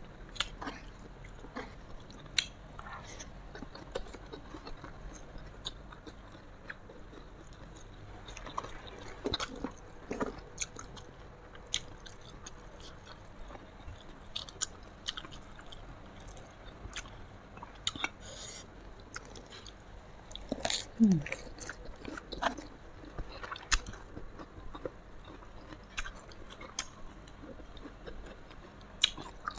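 Close-miked eating sounds: a person chewing and biting food, with irregular crunches and wet mouth clicks.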